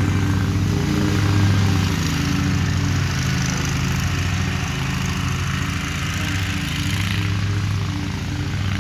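Lawn mower engine running steadily at a constant speed, its hum holding level throughout.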